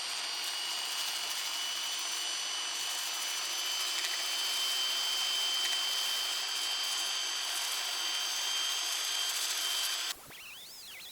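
Small high-speed power tool running steadily under light load, a noisy grind with a high whine on top, on the oil pump parts; it stops abruptly about ten seconds in.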